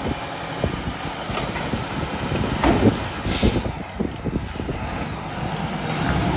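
Mack rear-loader garbage truck running, with a run of clanks and knocks from its rear hopper about halfway through and a short hiss of released air among them.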